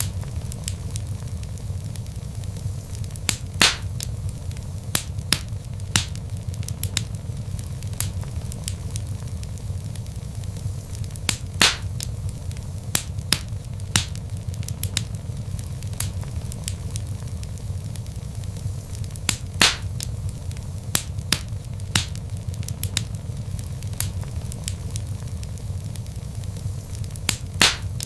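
Log fire burning: a steady low rumble of flames under frequent crackles, with a few louder pops of the wood.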